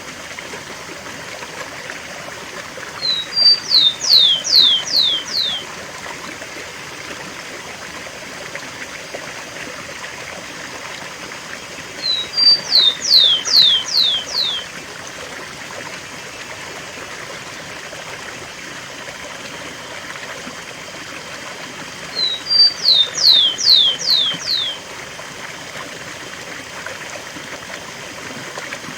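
Rufous-collared sparrow (tico-tico) singing its 'cemitério' song type three times, about ten seconds apart: each song is two short notes and then a quick run of four or five falling whistles. A steady rush of waterfall water runs underneath.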